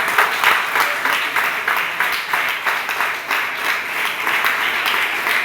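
A roomful of people applauding, with dense, steady hand clapping.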